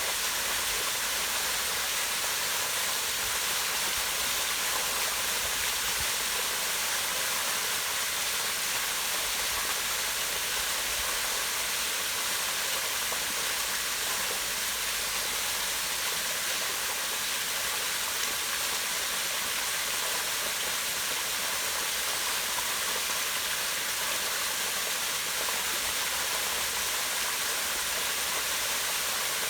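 Waterfall pouring down a rock face into a pond: a steady, unbroken rush of falling water.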